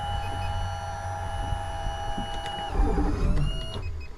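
Small camera drone hovering, its propellers giving a steady multi-tone whine over a low rumble. Near the end the whine breaks and shifts, some tones rising, as the drone changes speed.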